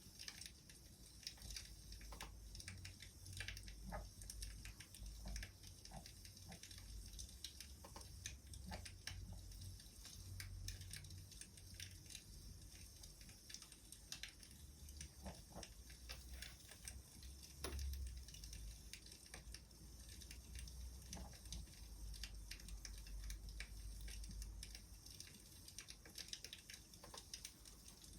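Faint crackling of a wood fire: irregular small pops and snaps over a soft hiss.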